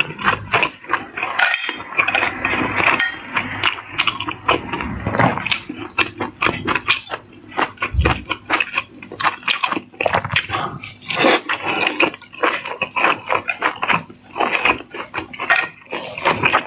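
Close-miked eating of seafood: wet chewing and mouth smacking with a steady stream of quick crackling clicks.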